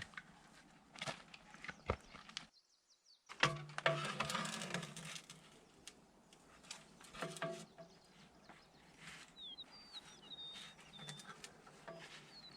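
Scattered knocks and clatter from handwork, with a short break of total silence about two and a half seconds in and a denser burst of clatter just after it. A small bird chirps several times near the end.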